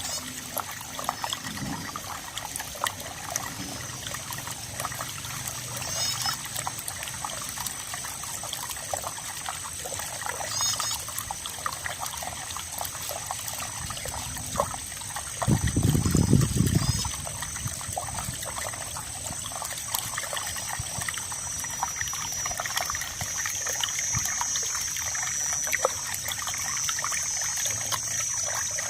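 Running water trickling and splashing steadily, with many small drips. A steady high-pitched tone sits in the background, and a low rumble lasts about a second and a half just past the middle.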